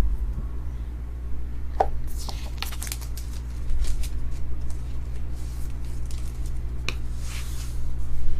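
Trading cards and their packaging being handled: rustling and crinkling, with a few sharp clicks, as a new box is opened and cards are pulled out.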